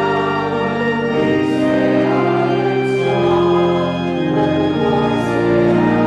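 Offertory music: a choir singing sustained chords, changing about every second, over an organ.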